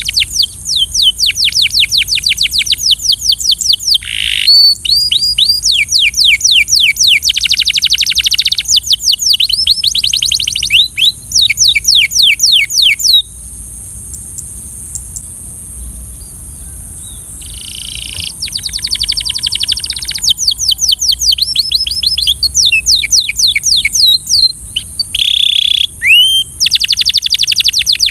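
Belgian canary singing: fast trills of rapidly repeated, high, downward-sweeping notes in phrases several seconds long, broken by a pause of about four seconds midway before the song resumes.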